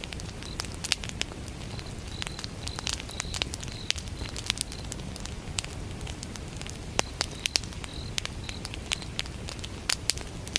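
Wood campfire crackling, with sharp pops scattered over a low steady burn. A cricket chirps in short, high, repeated bursts behind it.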